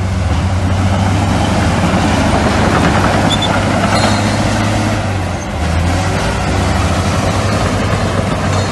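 Heavy diesel earthmoving machinery, bulldozers and dump trucks, running steadily with a deep engine hum; the level dips briefly about five seconds in.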